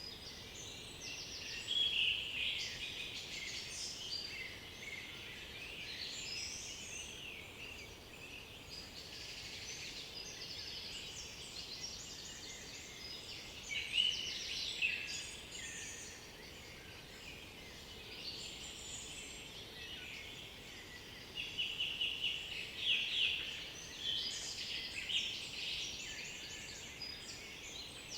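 Several songbirds singing at once, with overlapping phrases, chirps and rapid trills. The song swells louder near the start, midway and again toward the end.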